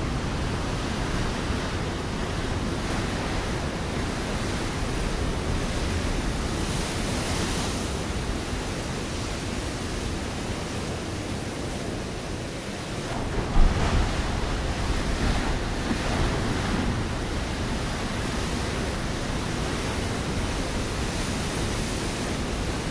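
Ocean waves breaking on a rocky shore: a continuous rush of surf, with one wave crashing louder a little past halfway.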